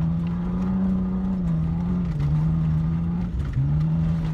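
Car engine revving hard under load, heard from inside the cabin while driving on grass. Its pitch holds high and briefly drops and climbs again twice, about two seconds in and near three and a half seconds, as the throttle is lifted and reapplied.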